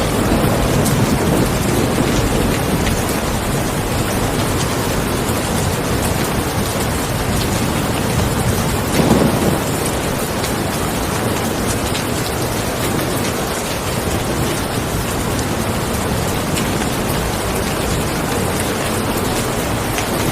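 Steady heavy rain with low rolls of thunder, a rumble dying away at the start and a short louder swell about nine seconds in.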